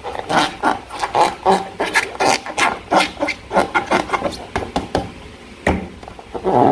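Slime being squeezed and worked by hand: an irregular run of wet squelching clicks and pops, with a louder squish near the end.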